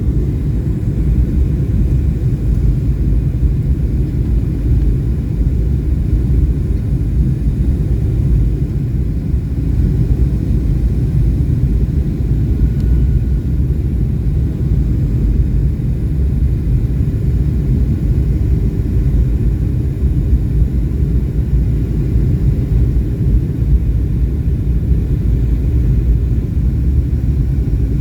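Airliner cabin noise on the approach to landing: a steady low drone of the jet engines and the airflow, heard from inside the cabin.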